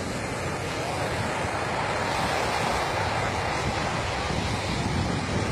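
Ocean surf rushing steadily on the beach, with wind buffeting the microphone.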